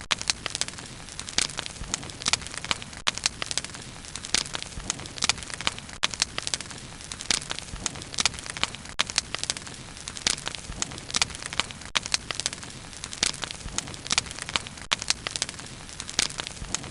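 Wood fire crackling steadily, with many sharp pops and snaps each second over a soft hiss of burning.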